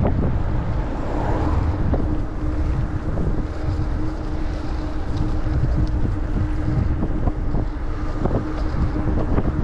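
Wind buffeting the microphone: a steady, heavy rumbling rush, with a faint steady hum through most of it.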